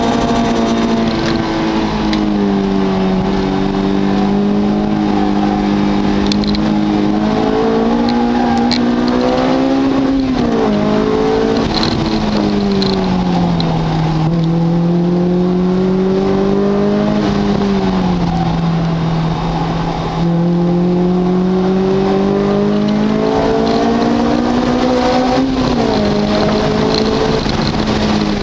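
A car engine driven hard on a race track, its pitch climbing under acceleration and falling back with gear changes and braking into corners, several times over.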